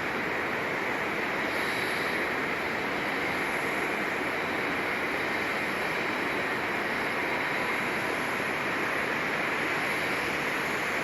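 Steady, unbroken roar of jet engine noise across the airport, with a faint high whine above it.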